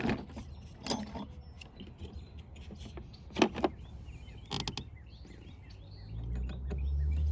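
A few sharp clicks and knocks of hand tools and parts at a car's steering column, with faint bird chirps. A low hum builds up near the end.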